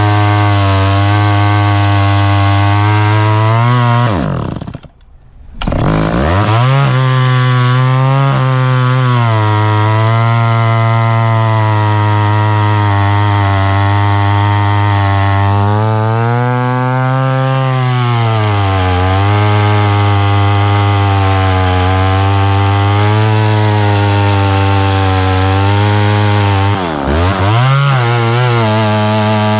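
Chainsaw running at high revs while cutting wood, its pitch rising and falling with the load. About five seconds in the engine drops off sharply and then revs back up, and near the end its pitch sags briefly in the cut.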